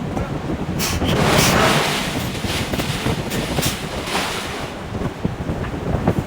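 Forge shop machinery noise around a hydraulic forging hammer: a steady rumble broken by several short, loud hissing or crashing bursts.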